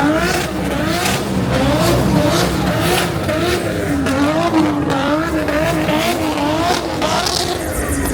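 A drift car's engine held at high revs, its pitch rising and falling about twice a second as the throttle is worked, over a steady hiss of tyre noise.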